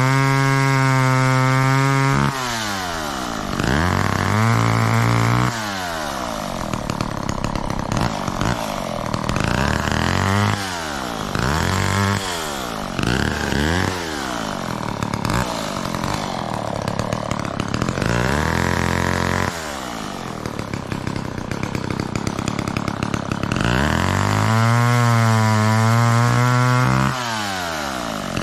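McCulloch Mac 10-10 two-stroke chainsaw run repeatedly up to full throttle and let fall back toward idle. It holds a steady high pitch for a couple of seconds at the start and again for about three seconds near the end, with shorter revs in between.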